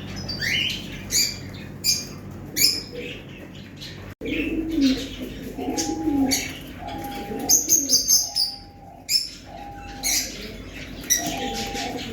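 Pigeons cooing in repeated low, rolling calls, mixed with brief high chirps and tweets from other birds. The sound cuts out for a moment about four seconds in.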